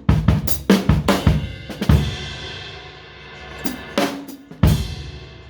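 Drum kit played: a quick run of snare and bass drum hits with cymbals for about two seconds, a cymbal ringing out, then a few more hits near the end.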